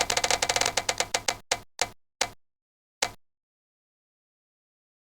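A fast run of sharp ticks that slows down, the last few spaced further and further apart, and stops about three seconds in, followed by complete silence.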